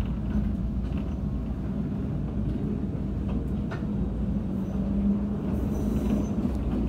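Interior running noise of a Toyama Chiho Railway electric train under way: a steady rumble with a low hum and a few faint clicks.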